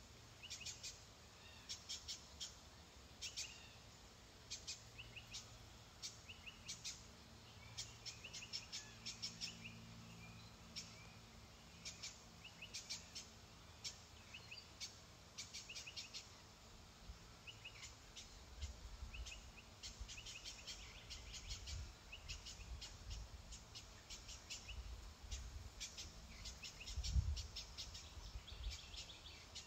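Small birds chirping faintly in quick little clusters, over a low rumble, with one low thump late on.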